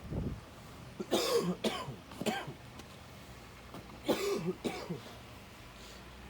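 A person coughing in two bouts: three hacking coughs about a second in, then two or three more about four seconds in.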